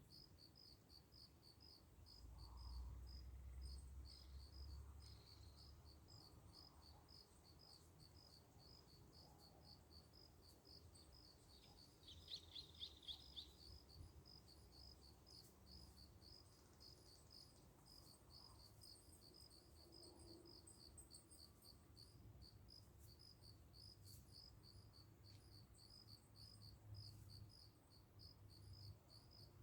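Faint, steady chirping of an insect: short high chirps repeating about three or four times a second. A brief, louder run of quick chirps, slightly lower in pitch, comes about twelve seconds in.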